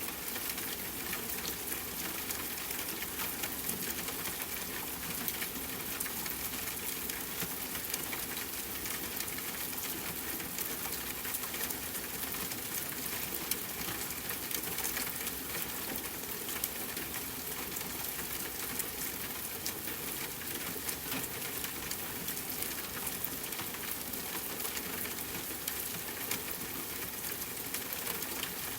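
Steady rain falling, many fine drops pattering in a dense, even hiss.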